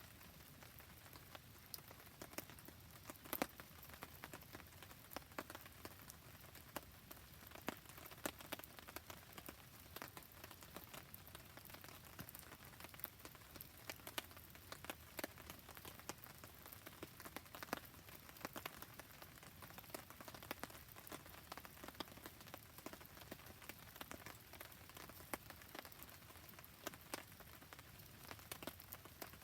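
Quiet, steady rain falling alongside a wood campfire, with irregular sharp ticks and pops scattered throughout.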